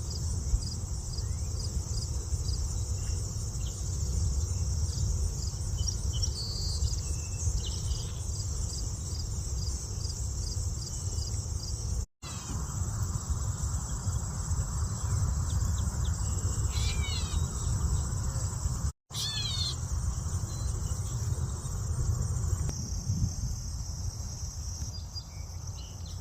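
Steady high-pitched chorus of insects, likely crickets, over a low rumble, with a few short bird chirps breaking in several times. The sound drops out briefly twice.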